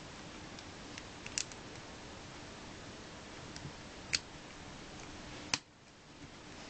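Three sharp plastic clicks, spaced a few seconds apart, from LEGO bricks being handled and snapped together, over the steady hiss of a low-quality camera microphone.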